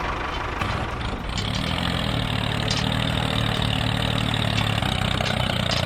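An engine idling steadily, a low even hum that settles in about a second in.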